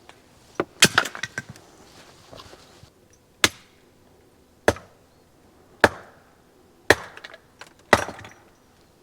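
Firewood being chopped: sharp blows on wood, a quick cluster with splintering crackle near the start, then single strikes about once a second.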